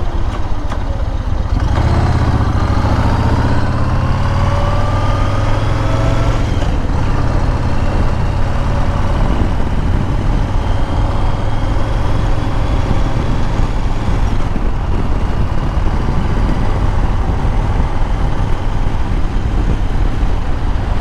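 Motorcycle engine running under way, with wind noise over it. The pitch climbs as it accelerates for a few seconds, breaks off about six and a half seconds in as if at a gear change, then rises again more slowly.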